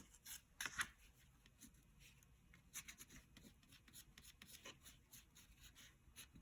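Faint scratching of a crayon rubbed lightly over paper in many short repeated strokes, one a little louder near the start.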